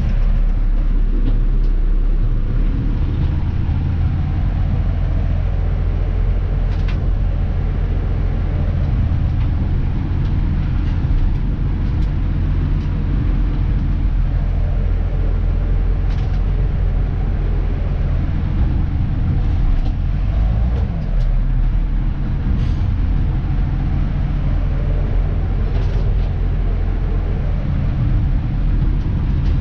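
Diesel engine of a Dennis Elite 2 garbage truck running steadily, heard from inside the cab.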